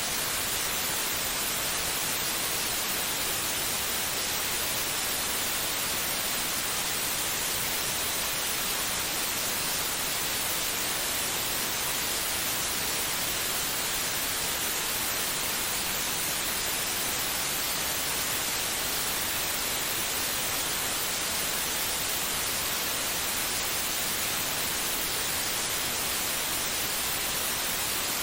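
Steady white noise: an even, unchanging hiss, strongest in the high range, with no rhythm or heartbeat in it.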